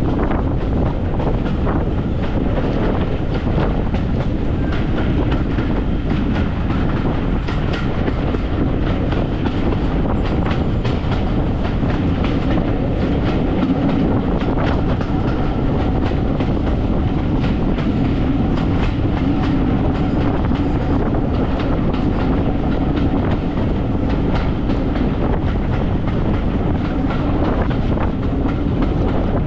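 Heritage railway train running along the track: a steady rumble with scattered clicks of wheels over rail joints, holding an even level throughout.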